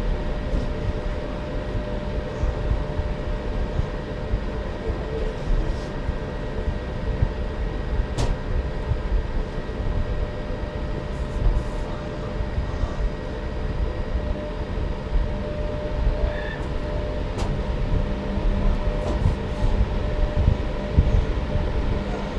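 Underground train carriage rumbling steadily, with a constant hum and a few faint clicks.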